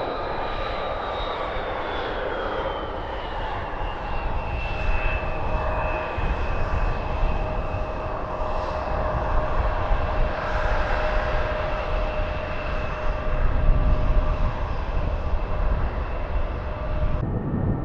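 Mitsubishi CRJ-900 regional jet's turbofan engines running, a whine that falls in pitch over the first few seconds as the jet passes, then holds steady over a low rumble. The sound changes abruptly near the end.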